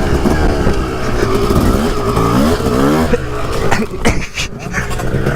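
Dirt bike engine running hard on a motocross track, climbing in pitch as it revs up about two seconds in, then dropping off the throttle about three seconds in. Rough knocks and wind buffeting follow.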